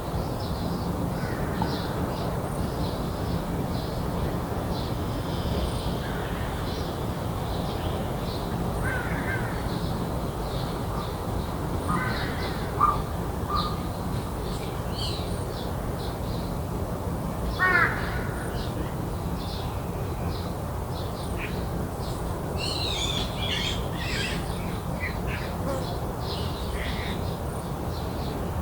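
Crows cawing a few times, the loudest calls about twelve and eighteen seconds in, over many short high chirps of small birds and a steady low background rumble.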